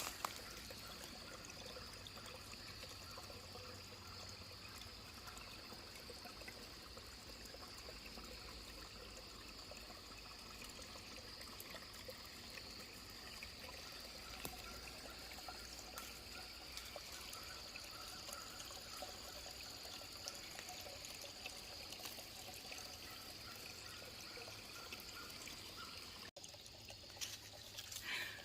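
Small woodland stream trickling steadily over rocks.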